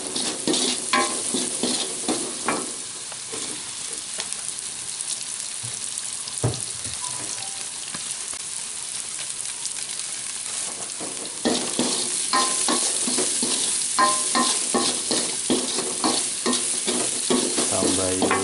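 Shallots, garlic and chili frying in hot oil in a wok, sizzling steadily while a spatula stirs and scrapes against the pan. About ten seconds in, cubes of tofu go into the wok, and from then on the stirring and scraping are louder and busier.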